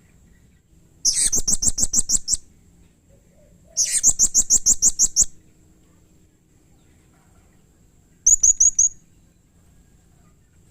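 Blue-crowned hanging parrot (serindit) calling in full, agitated voice: three bursts of rapid, shrill, high notes at about eight a second. Two runs last about a second and a half, and a short one of a few notes comes near the end.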